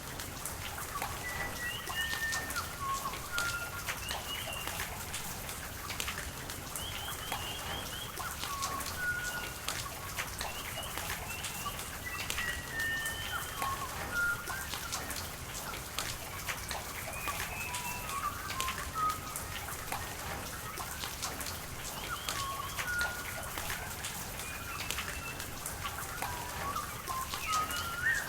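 Rain falling in sharp drips and patters over a steady wash of running water, with birds chirping in short high calls scattered throughout.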